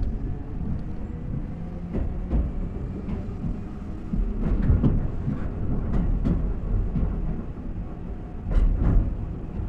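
Running sound inside a Keihan 2200 series electric train car: a steady low rumble of wheels on track, broken by pairs of quick clicks, the familiar 'ta-tan' as the wheelsets pass over rail joints. There are four such pairs, the last the loudest.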